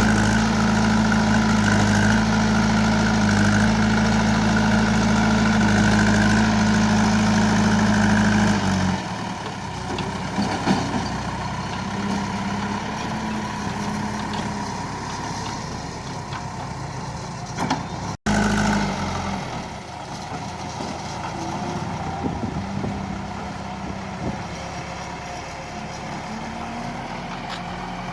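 JCB 3DX backhoe loader's Kirloskar diesel engine running, loud and steady for about nine seconds, then dropping to a lower level for the rest, with a few clanks.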